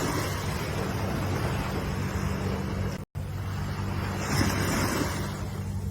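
Ocean surf washing in, a steady hiss that swells as waves break, over a steady low rumble. The sound cuts out for a split second about three seconds in.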